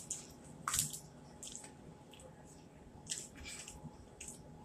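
Close-up eating sounds of fried fish being chewed: irregular wet mouth smacks and clicks, the loudest a little under a second in.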